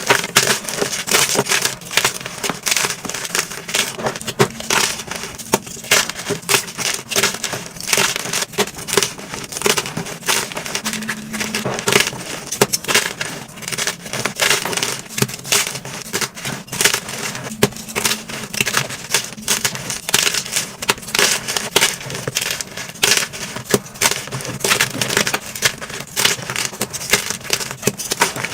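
Blocks of dyed gym chalk being crushed and crumbled by hand, a dense run of irregular crunching and crackling throughout.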